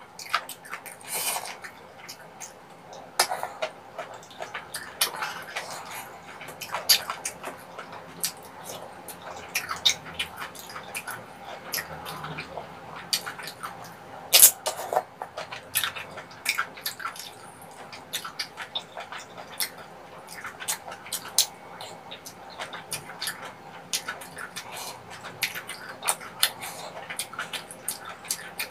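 Close-miked eating of soupy tteokbokki rice cakes: wet chewing and mouth smacks, with frequent irregular clicks and one sharper, louder smack about halfway through.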